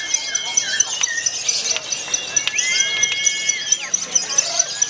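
Songbird singing long, held whistled notes with a slight warble, each lasting about a second, with shorter notes between them. A fast, steady high ticking runs underneath.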